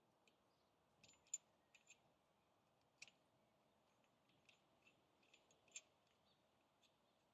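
Faint, scattered light clicks and taps of small metal parts being handled while a brake caliper piston wind-back tool is fitted, with two slightly louder clicks, one about a second in and one near the end.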